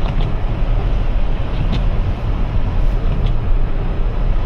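Loud, steady road and wind noise inside the cabin of a Toyota RAV4 Prime on Blizzak snow tires, driving over snow- and ice-covered road, with a few faint ticks.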